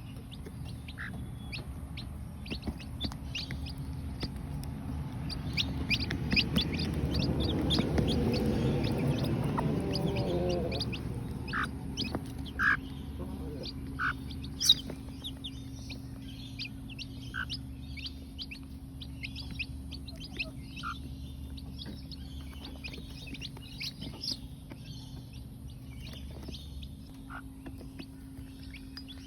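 Newly hatched chicks peeping in many short high chirps, with their mother hen clucking low, loudest about a quarter to a third of the way in. A single sharp click about halfway through.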